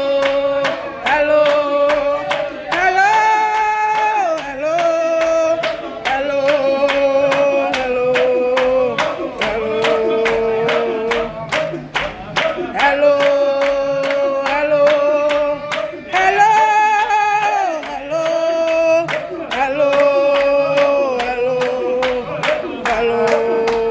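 A group singing a hymn-like melody with steady rhythmic hand clapping on the beat; the same melodic phrase comes round again about halfway through.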